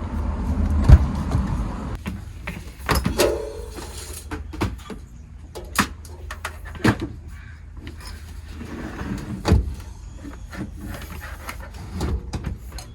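Scattered knocks and thumps of things being handled and set down, the loudest about a second in, over a steady low rumble.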